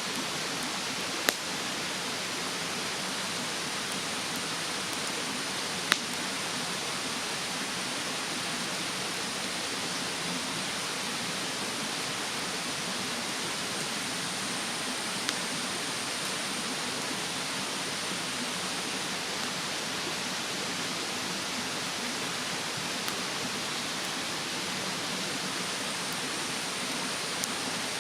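Wood fire burning in a fire stand, giving a handful of sharp single pops and crackles, the loudest about six seconds in, over the steady rush of a mountain stream.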